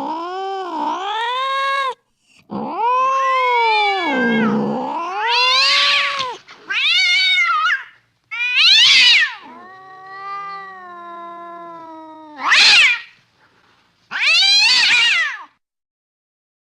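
Cats caterwauling: a string of about seven separate yowls and meows, some long and wavering up and down in pitch, others short and sharp, with abrupt silent gaps between them.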